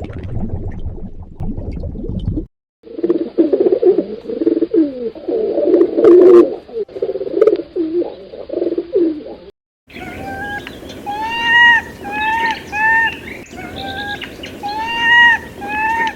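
Low water noise, then a dove cooing with repeated low, wavering coos, then a gibbon calling in a series of clear whooping notes that rise and fall in pitch.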